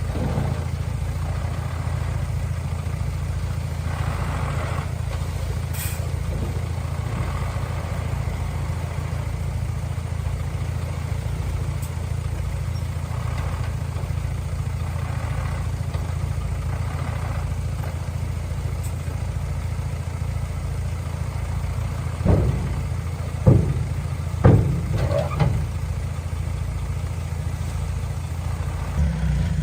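Heavy construction machine's diesel engine running steadily at low revs, a deep rumble, with a few sharp metallic knocks near the end.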